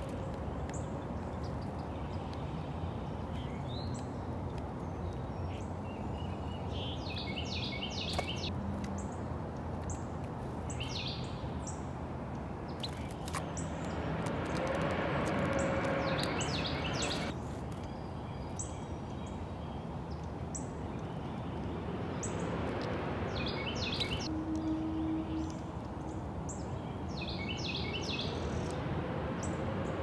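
A songbird repeating a short phrase of quick high notes every few seconds, about six times, over a steady low background rumble that swells twice.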